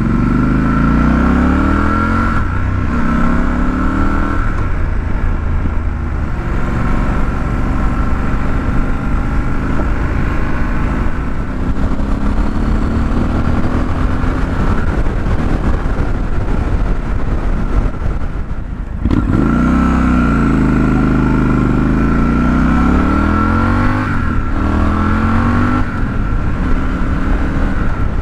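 2021 Triumph Scrambler 1200 XE's 1200 cc parallel-twin on its stock exhaust, heard from on board while riding: the revs climb and drop back again and again as the bike accelerates through the gears. In the middle the engine settles to a steadier cruise under an even rushing noise. Just before 19 s the sound dips sharply, then the revs climb again.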